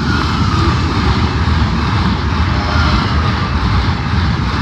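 Greater Anglia Class 745 electric multiple unit passing at speed: a loud, steady rumble and rush of wheels on rails that keeps up throughout.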